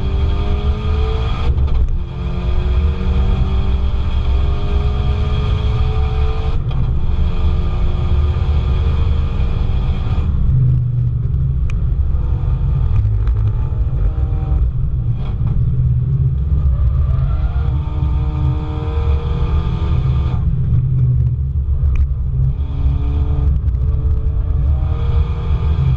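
Car engine heard on board at a track day, revving up and changing gear several times, with a steadier stretch of lighter throttle in the middle before it pulls up through the revs again. A heavy low rumble of road and wind noise runs underneath.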